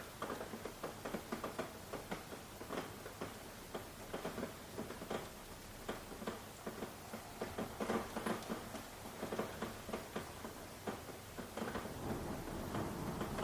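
Rain falling, heard as irregular pattering drops and ticks on a hard surface over a soft hiss. A low rumble builds near the end.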